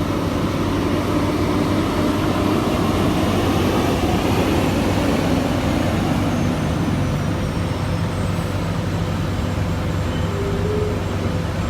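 Heavy diesel truck engine running steadily, a constant low hum with an even rumbling noise over it.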